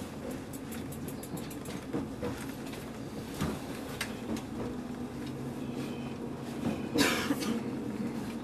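Passenger train running, heard from inside the carriage: a steady rumble and hum with a run of light clicks from the wheels over rail joints, and a brief louder rush about seven seconds in.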